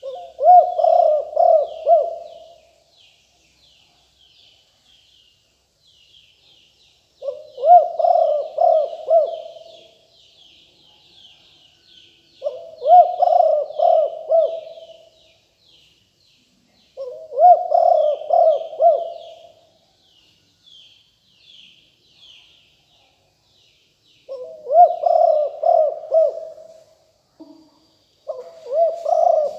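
Spotted dove cooing: a phrase of several coos about two seconds long, repeated six times with pauses of a few seconds between. Small birds chirp faintly and continuously, much higher in pitch.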